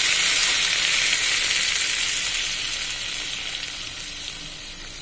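Sliced cucumber, shallots and chillies sizzling in hot oil in a wok. The sizzle fades gradually as a little water is poured in.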